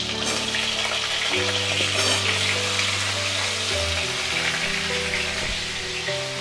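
Potato pieces frying in oil in a steel kadai: a steady sizzle, with soft background music of held notes changing every second or two.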